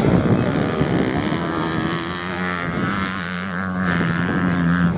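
Racing motorcycle engines running at steady revs. A higher engine whine builds in the second half and cuts off suddenly just before the end.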